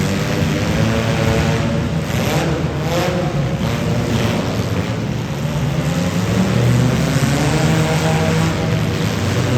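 Several demolition derby cars' engines running and revving at once, with a couple of sharp knocks about two to three seconds in.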